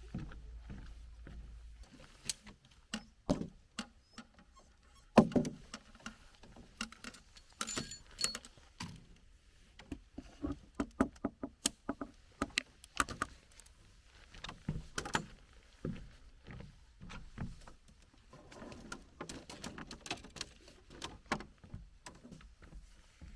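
Camping gear being handled and set up on a wooden tent platform: an irregular run of clicks, knocks and clatters, the loudest knock about five seconds in, with a brief metallic jingle around eight seconds in.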